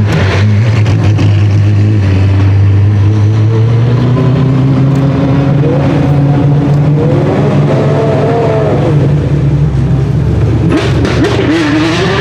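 Apollo Intensa Emozione's 6.3-litre naturally aspirated V12 running steadily at low revs, a loud, even engine note with no revving.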